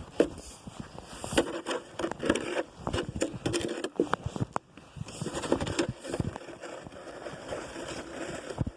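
Irregular crunching and scraping of snow, in quick uneven strokes.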